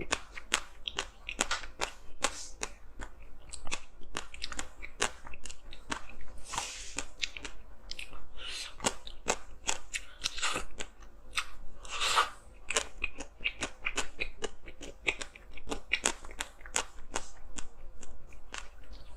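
Close-miked crunching and chewing of hard frozen ice: a rapid, irregular run of sharp cracking bites, with a few longer grinding crunches.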